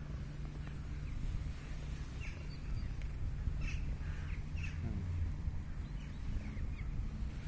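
Birds calling with several short, high chirps a second or so apart, over a steady low rumble.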